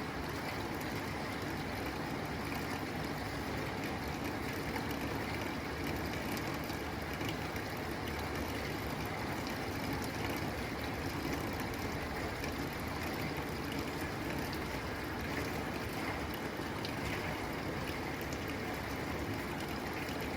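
Steady rain on a tin roof: an even hiss of rainfall with scattered drop ticks.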